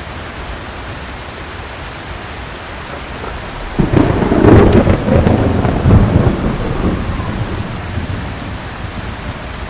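Steady heavy rain, with a sudden clap of thunder about four seconds in that rumbles on for a few seconds and fades away.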